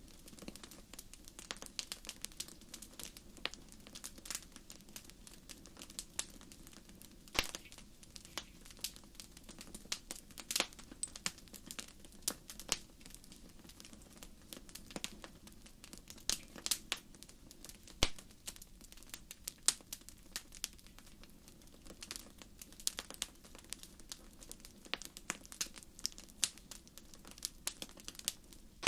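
Wood fire burning in a fireplace, crackling with irregular sharp pops and snaps over a low, steady rumble of flame.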